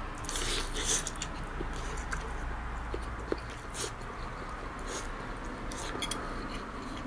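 A person biting into and chewing grilled chicken drumstick meat, with soft, irregular mouth noises.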